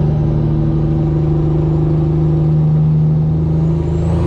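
A vehicle engine running steadily: a constant low drone at an even pitch.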